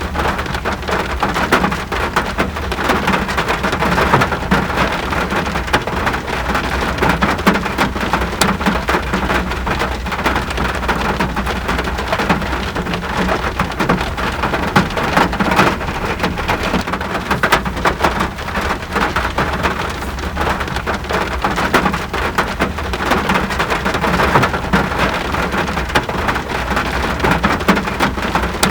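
Steady rain falling, a dense patter of drops hitting surfaces, over a steady low rumble.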